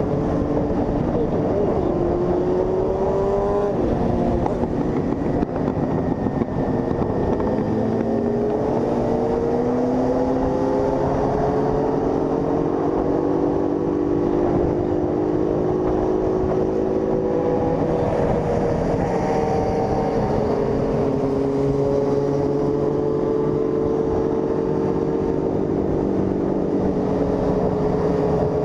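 Honda CG 160 Fan's single-cylinder engine running under way, its pitch climbing as it accelerates, dropping at a gear change about four seconds in, then rising slowly again before settling into a steady cruise. A rush of wind noise runs underneath.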